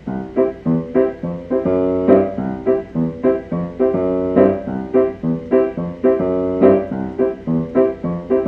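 Instrumental introduction on a piano or electric keyboard: a bouncy rhythmic pattern of chords and notes in a steady tempo.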